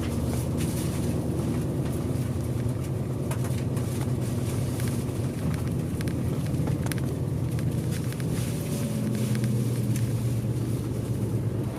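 Bus diesel engine and road noise heard from inside the passenger cabin while driving: a steady low drone, with the engine note shifting a little about eight seconds in and scattered small rattles from the interior.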